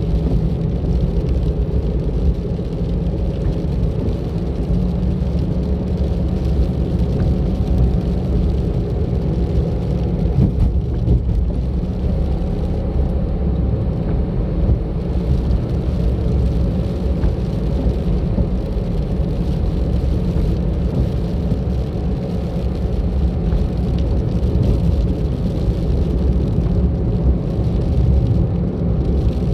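A car driving steadily along a road: a continuous low rumble of engine and tyre road noise, heard from the car itself.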